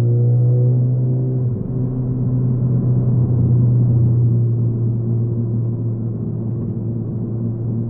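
2015 Ford Focus ST's turbocharged four-cylinder through a Roush exhaust, heard from inside the cabin while driving: a steady, low exhaust drone, with a brief dip about one and a half seconds in. This drone is a known trait of this exhaust at highway speeds and low revs.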